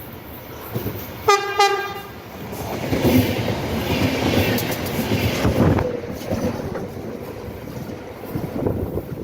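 EFE passenger train UTS610 sounds two short horn blasts about a second in, then passes with a swelling rumble and clatter of wheels over rail joints that peaks midway and fades away.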